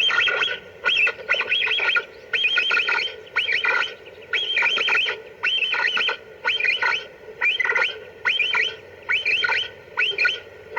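Capybara call, played as a lure, giving bursts of rapid squeaky chirps, about one burst a second over a steady hum.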